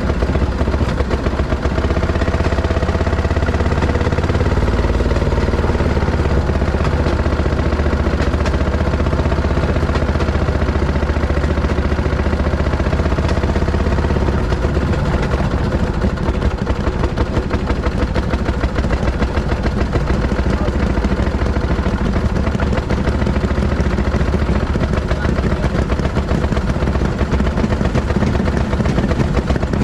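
Fairmont M19 railroad speeder's engine running steadily as the motorcar travels along the track, a fast, even pulsing with a low hum beneath.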